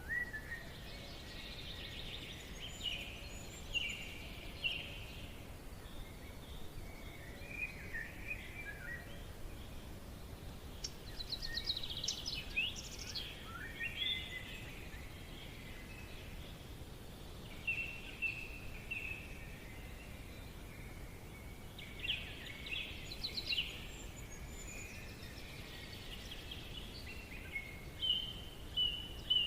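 Forest ambience: several small birds chirping and trilling at intervals over a steady low background hiss.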